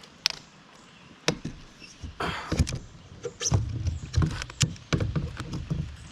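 Sharp knocks and uneven low thuds of handling on a kayak, a few clear clicks at first, then a busier stretch of bumping from about two seconds in.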